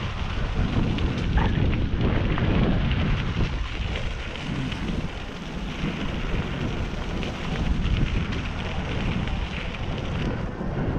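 Wind buffeting the microphone of a rider cycling along: a low, unsteady rumble that swells and dips throughout.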